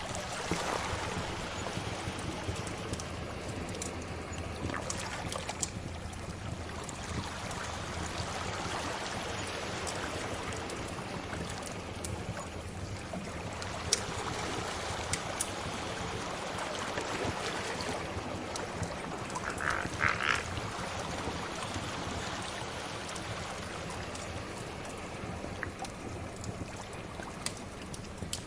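Sea waves washing in slow swells, mixed with a crackling fire that gives sharp pops now and then. About twenty seconds in there is a short higher-pitched sound over the waves.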